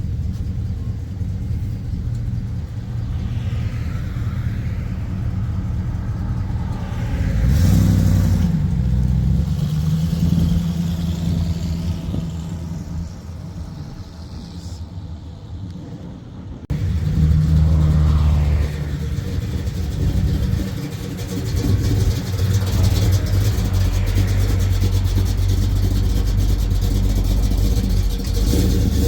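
Cars pulling out and driving past, their engines rumbling and revving as they accelerate away, louder as each one passes. The sound jumps abruptly about two-thirds of the way through.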